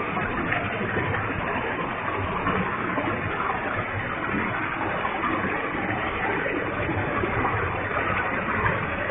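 Waterfall with a heavy flow of water, a steady rushing roar of falling water and spray.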